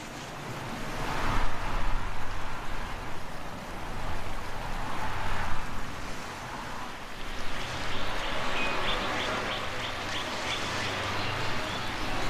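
Wind rushing in gusts that swell and fade every few seconds. In the second half a bird gives a quick series of short, high chirps.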